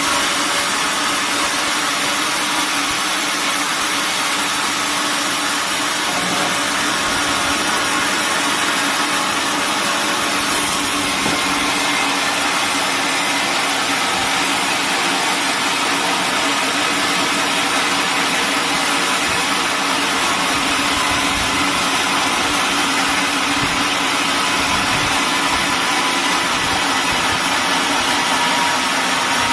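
Sawmill machinery running steadily, a continuous loud engine-like noise with no breaks.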